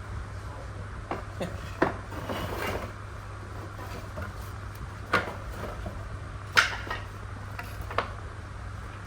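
A few sharp knocks and clatters, as of tools and parts being handled and set down on a workbench, spaced a second or more apart, the loudest a little past the middle, over a steady low hum.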